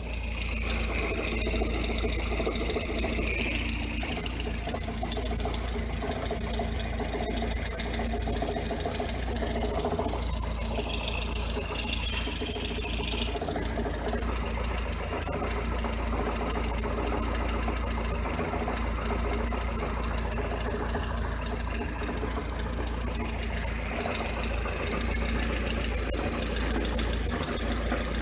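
Lada Kalina engine running with a steady 'tr-tr-tr' rattling knock that the owner cannot explain; it disappears completely when the clutch pedal is held down, which points the owner toward the gearbox.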